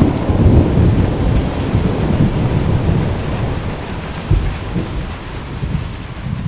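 Thunder rumbling over steady rain, the rumble slowly fading, with a short low thump about four seconds in.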